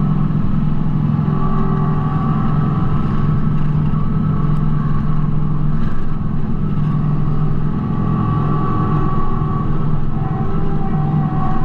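Kubota B2650 compact tractor's three-cylinder diesel engine running steadily under work, with a higher whine that fades in and out over the steady engine note.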